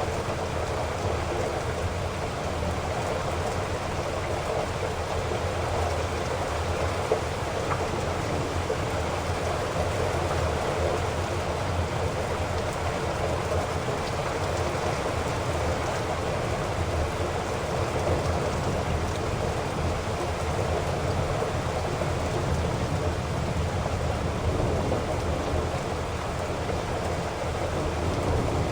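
Heavy rain falling steadily, an even hiss with a deep low rumble beneath it. There is one brief sharp tick about seven seconds in.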